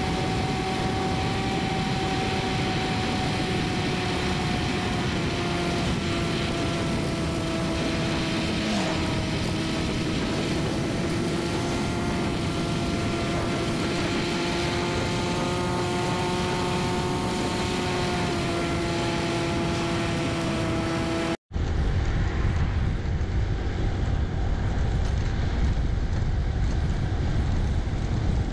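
Motorcycle engine running steadily at road speed, its whine holding a near-even pitch that drifts slowly up and down. About three quarters of the way through it breaks off abruptly and gives way to a lower, noisier riding sound.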